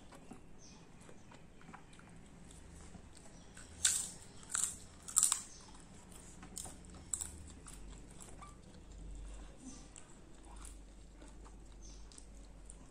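Close-miked eating: three sharp crunches about four to five seconds in as a piece of papad is bitten and chewed, followed by a few softer chewing clicks.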